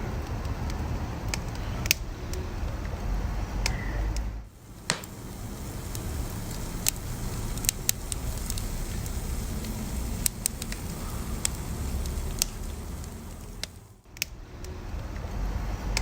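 Wood fire burning, a steady low rush with scattered sharp crackles and pops from the burning wood. The sound drops away briefly twice, about four seconds in and near the end.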